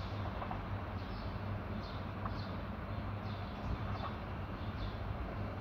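Small birds chirping in short, falling calls repeated about every half second, over a steady low rumble.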